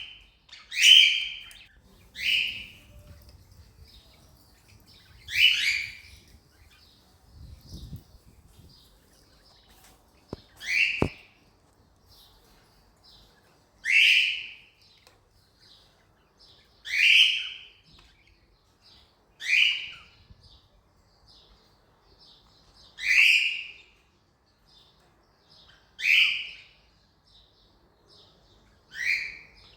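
Cockatiel calling: about ten short, loud, shrill calls repeated every two to three seconds, with fainter soft chirps in between.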